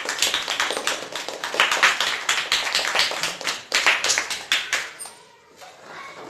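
A small group clapping by hand, a fast irregular patter of claps that dies away about five seconds in.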